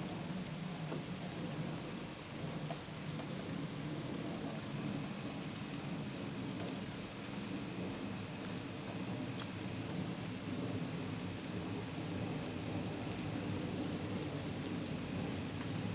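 Steady rain falling, pattering on a window and gutters, with crickets chirping in short, repeated runs of a high, thin note.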